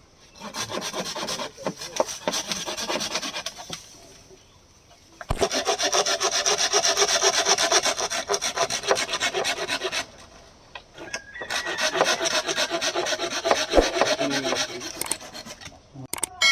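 Hand saw cutting through bamboo, with rapid back-and-forth strokes in three spells broken by short pauses.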